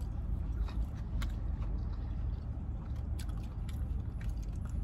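Chewing food close to the microphone: scattered soft mouth clicks and smacks over a steady low hum.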